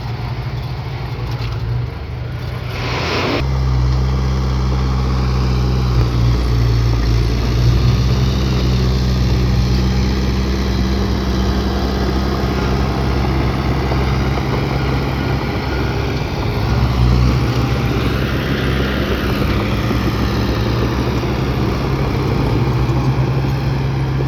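Heavy diesel engine of earthmoving equipment running steadily with a low drone; it gets louder and deeper about three seconds in.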